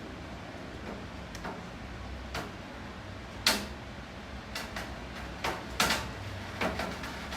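Rain dripping onto a hard surface: about a dozen sharp, irregular taps of large drops, the loudest about halfway through, over a steady low rain hiss and hum.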